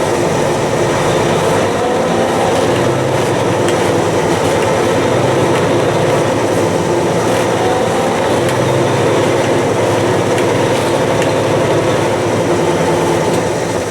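Peterbilt 379 semi truck's diesel engine running steadily as the truck gets under way, heard from inside the cab.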